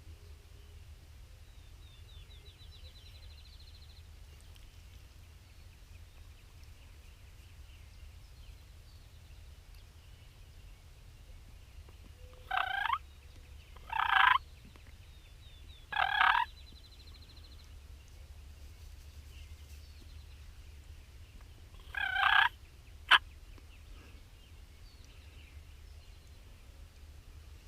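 Wild turkey gobbler gobbling four times, each a short rattling gobble, three in quick succession and one more several seconds later. A single sharp click follows the last gobble.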